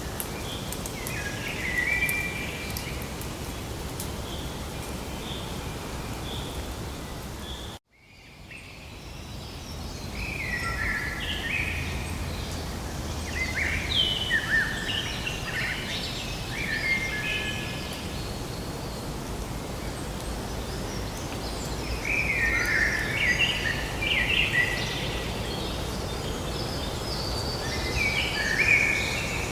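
Outdoor ambience of wild birds calling and chirping over a steady background hiss. The sound cuts out abruptly about a quarter of the way in and fades back up, after which the bird calls come thicker and busier.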